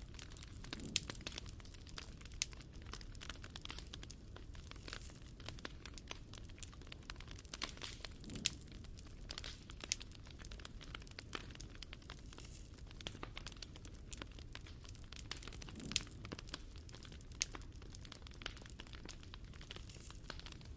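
Wood fire crackling: a continuous stream of small snaps and ticks over a low rumble, with a few sharper, louder pops scattered through.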